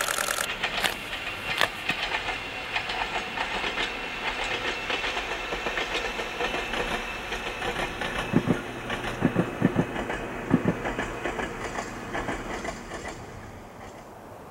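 Ohmi Railway 300-series electric train (set 302F) running past, its wheels clicking over the rail joints, with a run of heavier low clunks about eight to eleven seconds in. The sound then fades away near the end.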